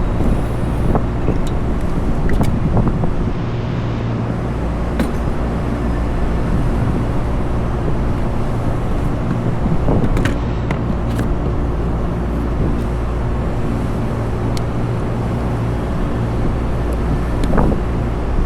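Steady low mechanical drone of rooftop machinery, with several held low tones under a haze of noise. Occasional light clicks and taps of tools and metal parts break through it as work goes on at the fan.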